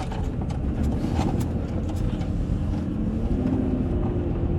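Road and engine noise inside a moving car's cabin: a steady low rumble, with a few faint clicks in the first second and a half.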